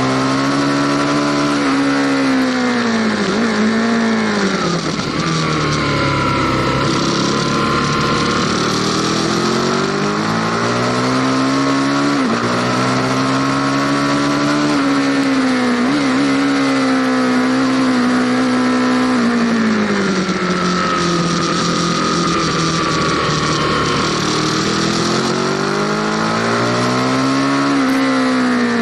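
Aprilia Tuono Factory motorcycle engine heard on board while riding. The engine pitch rises under acceleration and drops back several times, with a long steady stretch in the middle, over a constant rush of wind noise.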